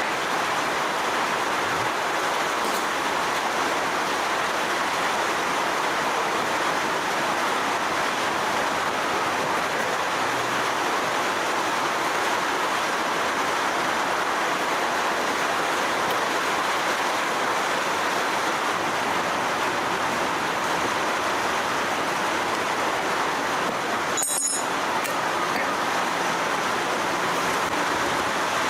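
A steady, even hiss with no pitch or rhythm, holding one level throughout, with a brief click about 24 seconds in.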